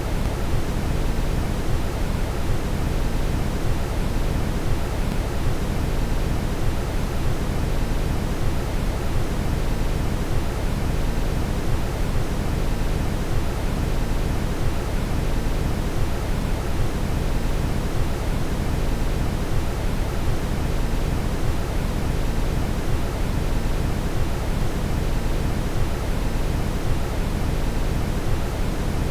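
Steady brown noise: an even, unbroken noise, deep and heaviest in the bass, with much less hiss higher up.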